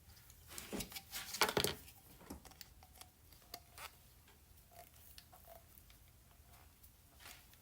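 Light handling noises: a quick cluster of rustles and sharp clicks about a second in, then scattered small clicks and taps.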